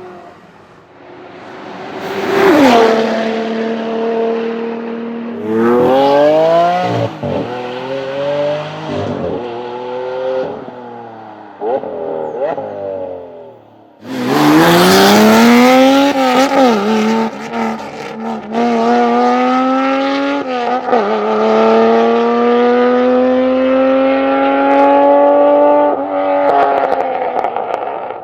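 Supercar engine revving and accelerating hard through the gears, the pitch climbing and dropping back at each upshift. A second, louder run starts suddenly about halfway through.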